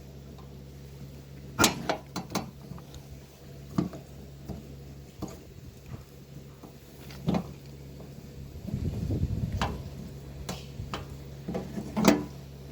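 Scattered sharp knocks and clicks, irregularly spaced, over a steady low hum, with a short rough rumble about two-thirds of the way through.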